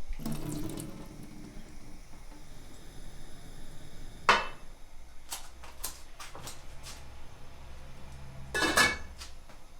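Kitchen work: dishes and utensils knocking and clinking, with water splashing. There is a sharp clatter about four seconds in and a louder, longer splash-and-clatter near the end.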